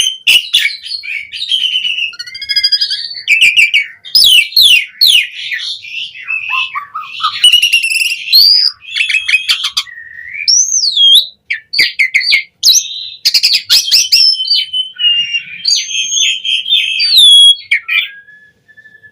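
Asian pied starling (jalak suren) singing a long, varied song: quick whistles, rising and falling glides, harsh chattering notes and clicks in rapid succession, with a held level whistle near the end.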